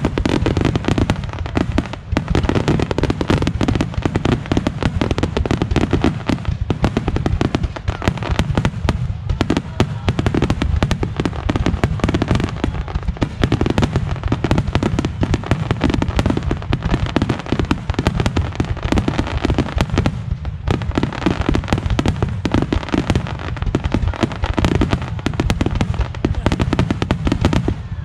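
Fireworks display: a dense, rapid barrage of aerial shell bursts, many bangs a second with no letup.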